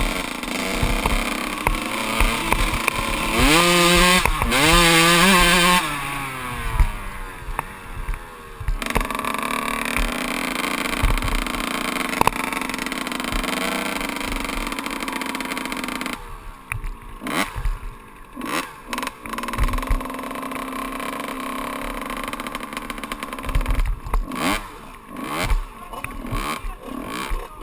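A 125 cc two-stroke dirt bike engine being ridden off-road, revving up sharply a few seconds in, then running at steadier revs. About halfway the engine drops back and the ride turns to a series of irregular knocks and rattles.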